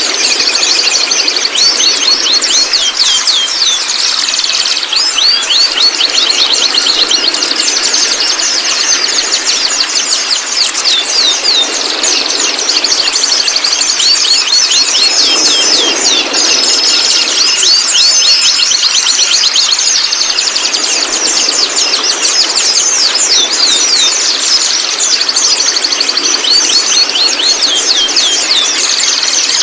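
Young white-rumped shamas chattering: a dense, unbroken stream of quick, high rising and falling chirps, with a few short held whistles about halfway through.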